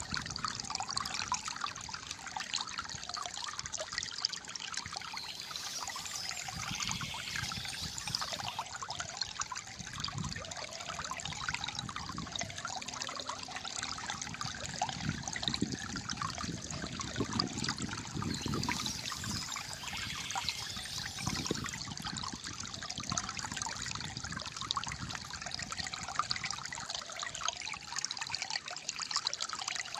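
Calm flowing water, trickling and gurgling steadily.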